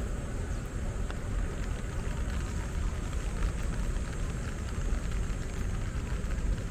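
Steady outdoor city ambience: a continuous low rumble with an even hiss and a thin, steady high whine above it, plus faint light ticks.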